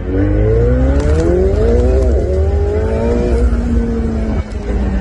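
Sports car engine under a hard launch, heard from inside the cabin. The revs climb steeply, dip briefly at a shift about two seconds in, climb again, then fall away a little after three seconds.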